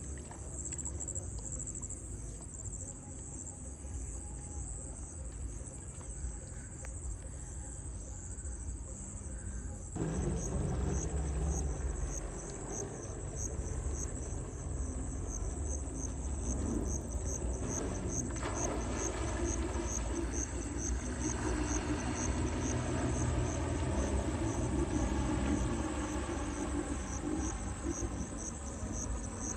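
A steady, high-pitched insect chorus with a rapid pulse, over a low rumble that grows louder about ten seconds in.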